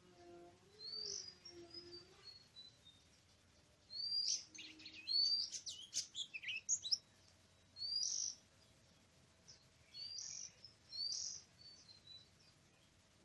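Oriental magpie-robin singing: short, sweet notes rising in pitch, repeated every second or two. A rapid jumble of varied notes comes about four seconds in.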